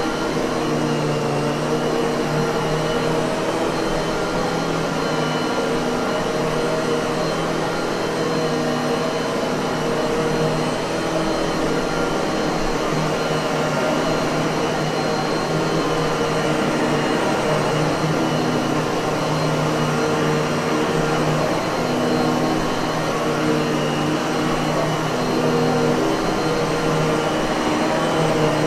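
Miele vacuum cleaner motor running steadily: a constant airy hum with a thin high whine, holding the same pitch and loudness throughout.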